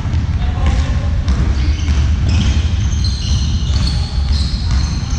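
A ball bouncing repeatedly during a team ball game, over a heavy steady low rumble, with short high squeaks in the second half.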